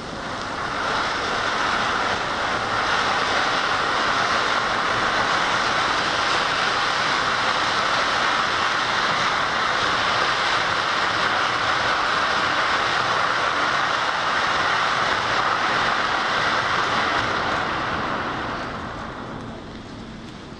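Ajanta Strawberry Pink crackling fountain firework burning: a steady, dense hiss that builds over the first couple of seconds, holds, and dies away over the last few seconds.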